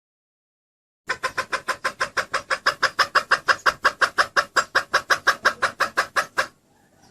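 Junglefowl hen giving a fast, even run of clucks, about seven a second, starting about a second in after dead silence and stopping abruptly after about five seconds.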